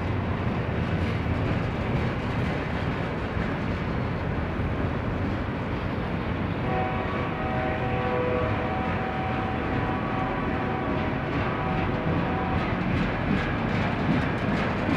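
BNSF freight train rolling past with a steady, heavy rumble. About seven seconds in, a chord of several steady tones sounds over the rumble and holds for about six seconds.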